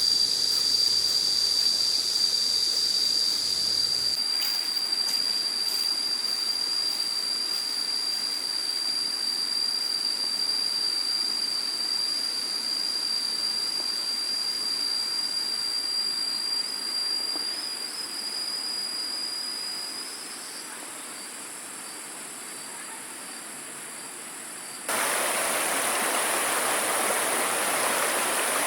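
Steady, high-pitched insect drone, such as crickets or cicadas, with a faint hiss, fading slightly around 18–20 s. About 25 s in it cuts abruptly to a louder, even rushing noise.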